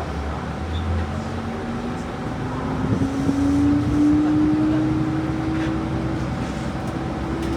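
Diesel engine of a KiHa 40 railcar, a Nippon Sharyo/Kawasaki DMH17H, running under power over a steady low rumble. Its note rises slowly over the first few seconds as it speeds up, grows loudest about four seconds in, then holds steady.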